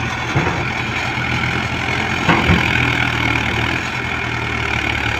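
Diesel engine of a heavy tractor or backhoe loader running steadily at a low, even speed, with a couple of brief knocks, about half a second in and just after two seconds.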